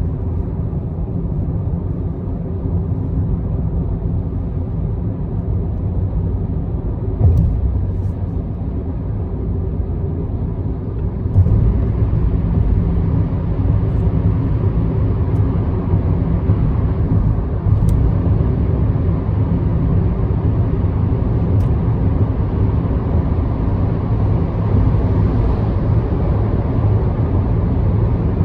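Car driving at expressway speed: steady low road and engine rumble. There is a single bump about seven seconds in, and the rumble gets louder from about eleven seconds in.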